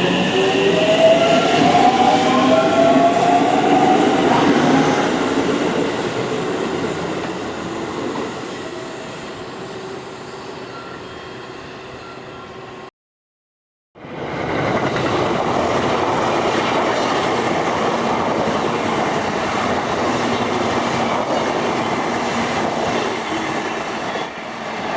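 Electric train pulling away, its motors giving a rising whine as it speeds up, then fading as it moves off. After a brief cut, the steady running noise of a train on the rails.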